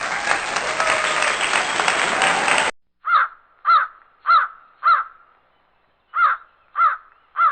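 About two and a half seconds of a dense hissing, noisy recording that cuts off abruptly, then a crow cawing: four caws about 0.6 s apart, a short pause, and three more.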